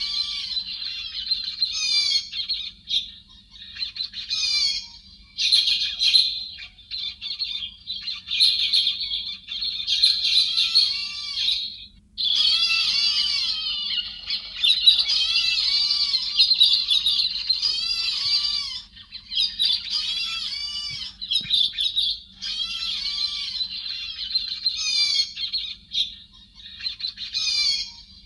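Recorded song of the bird Vietnamese trappers call 'héc xoan', a kind of thrush (chim hét), played as a lure call: rapid, chattering, warbling phrases in short bursts every second or two, with one longer unbroken run of song in the middle. A faint low hum lies underneath.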